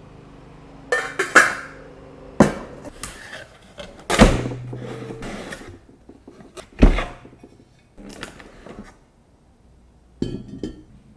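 Dishes and kitchenware being handled and set down on a counter: a series of separate knocks and clinks, the loudest about four and seven seconds in.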